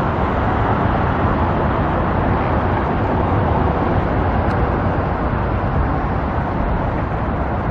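Steady rush of road traffic passing by.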